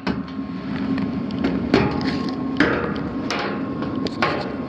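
Sheet-metal access panel of an indoor air handler and furnace being worked loose and taken off: about five sharp metallic knocks and clunks spread over a few seconds, over a steady hum.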